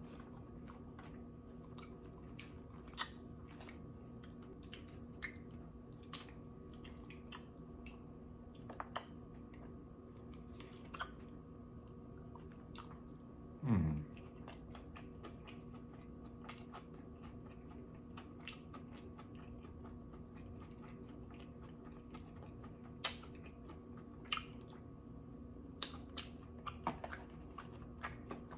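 Close-miked chewing of sushi, with scattered soft crunches and wet mouth clicks. About fourteen seconds in comes one short, falling "mm" of enjoyment.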